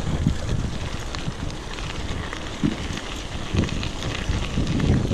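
Wind rushing over the microphone of a moving mountain bike, with irregular rattles and knocks from the bike rolling over the trail. The bike is one its riders call very loud.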